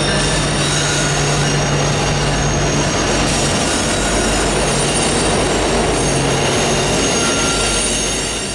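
Train rolling past, steel wheels on rail with a continuous rumble and several high, steady squealing tones from the wheels. The sound begins to fade near the end.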